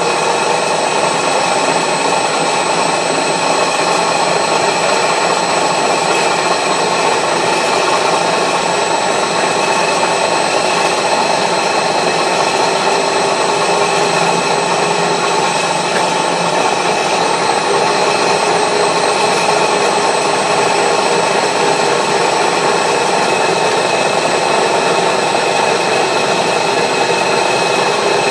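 A metalworking machine tool running steadily and cutting hard steel on a wood-chipper blade, with a constant high whine over the cutting noise.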